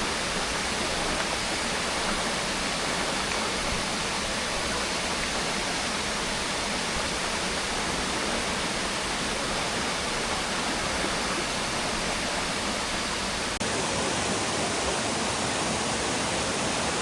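Waterfall pouring: a steady, even rush of falling water, with a brief break about three-quarters of the way through where the recording cuts.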